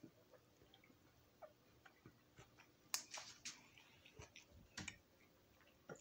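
Faint, irregular wet clicks and smacks of a mouth chewing juicy orange slices, with a louder cluster about three seconds in and another near five seconds.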